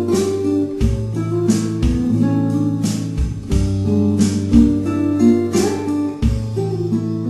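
Instrumental music led by strummed acoustic guitar, with held bass notes and a chord change about every second.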